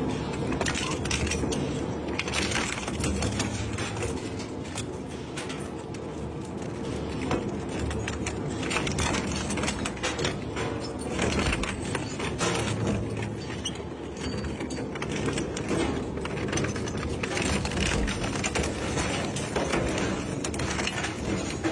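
Industrial shredder running under load: a steady low machine drone with frequent cracks and crunches of material being torn and broken.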